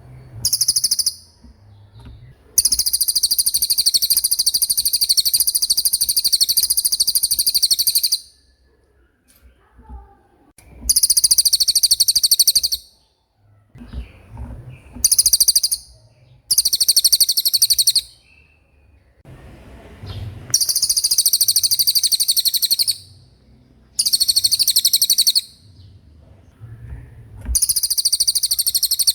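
A cililin songbird singing fast, high-pitched rolling trills in repeated bursts, some about half a second and others five seconds long, separated by short pauses.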